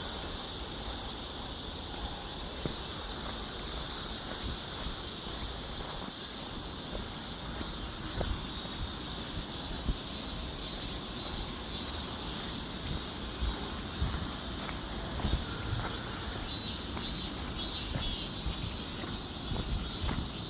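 Forest ambience: a steady high-pitched chirring of insects, with scattered soft crunches and knocks that come more often in the second half.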